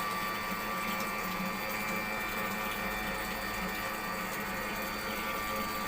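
Aircraft fuel booster pump running steadily on a test bench, an electric pump's even hum with liquid flowing through it.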